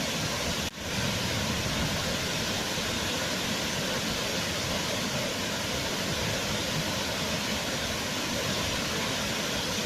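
Waterfall: a steady rush of falling water, with a momentary dropout just under a second in.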